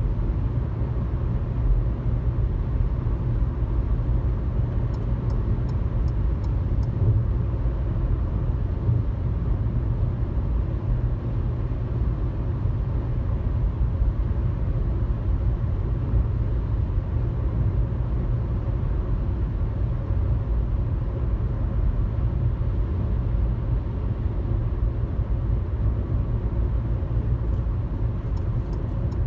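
Car cruising on a highway: a steady low rumble of road and engine noise. Faint ticking comes briefly about five seconds in and again near the end.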